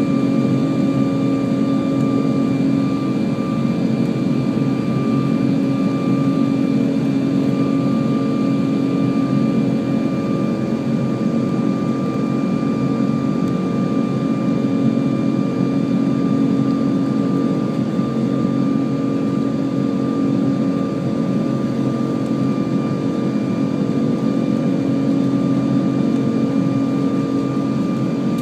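Airbus A340-600's four Rolls-Royce Trent 500 turbofan engines running at steady power, heard from inside the cabin. An even rumble with constant humming tones and a thin, higher steady whine.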